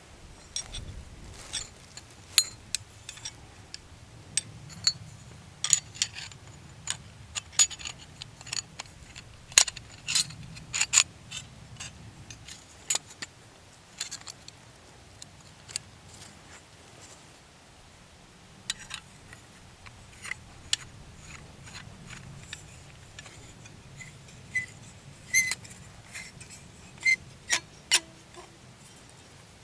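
Light metallic clinks and clicks at irregular intervals, a few ringing briefly near the end.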